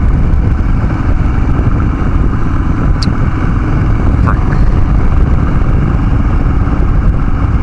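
Harley-Davidson Dyna Street Bob V-twin with a Vance & Hines Big Radius 2-into-2 exhaust, running steadily under way with a deep, continuous rumble.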